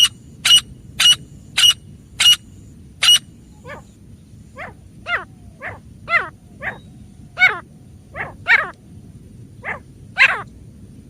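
Female grey francolin calling: a fast run of sharp, high notes on one pitch, about two a second, then from about three seconds in a looser series of notes that each fall steeply in pitch.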